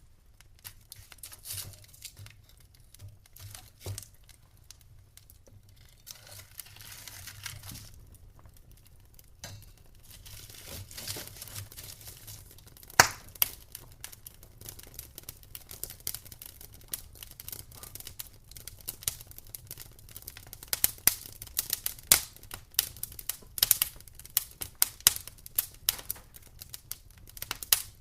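Wood fire crackling in a fireplace: scattered sharp pops and snaps that grow denser in the second half, with one loud pop about halfway through and a brief soft hiss a few seconds in.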